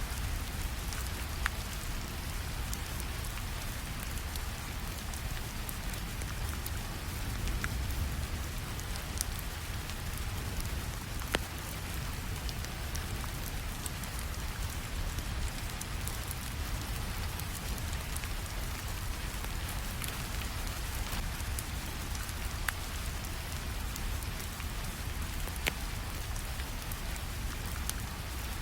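Steady rainfall with a low rumble, mixed with a wood fire crackling, a few sharp pops standing out.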